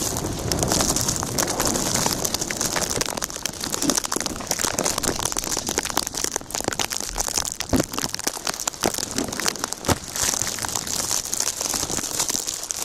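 Steady dense crackling and pattering of snow: footsteps crunching through deep fresh snow amid near-blizzard snowfall, with many small clicks throughout.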